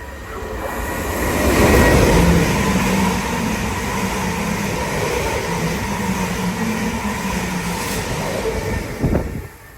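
Electric train passing through the station at speed. Its rush builds over the first two seconds, holds steady with a low hum, then drops away suddenly near the end.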